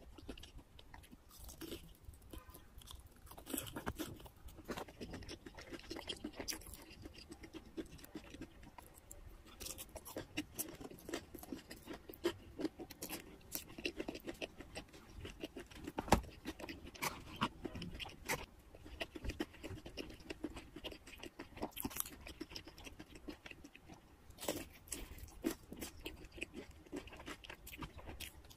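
Close-miked chewing and crunching of fried chicken pieces coated in cheese sauce, a steady run of small crisp clicks, with one sharper crack about sixteen seconds in.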